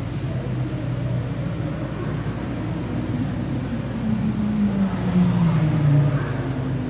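Cars' engines running at speed around a race circuit. About four seconds in, one car grows louder, its engine note falling steadily as it passes.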